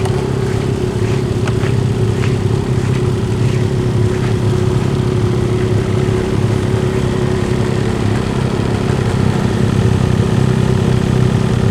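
Ski-Doo two-stroke snowmobile engine idling steadily, getting a little louder near the end.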